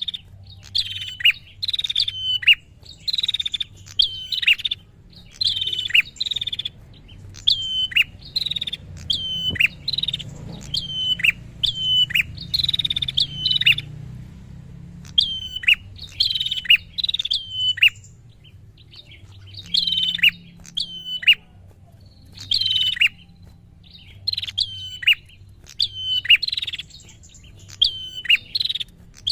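A prinia (prenjak) calling in rapid, repeated bursts of short, sharp notes that drop in pitch, with brief pauses between the runs. A faint low hum runs underneath.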